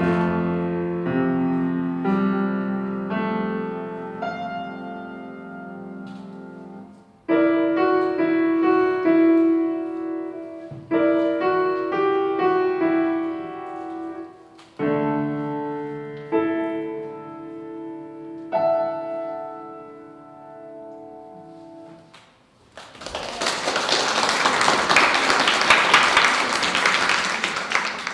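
Solo acoustic piano playing slow sustained chords, each new chord struck and left to ring and fade, ending on a last chord that dies away about 22 seconds in. Then applause breaks out and continues.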